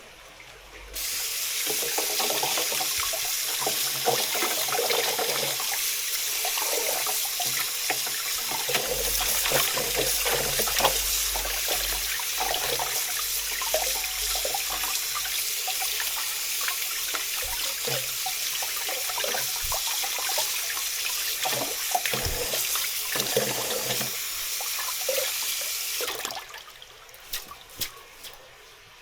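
Kitchen tap running into a sink, with scattered knocks and clatter of things being rinsed under the stream. The water comes on about a second in and shuts off near the end.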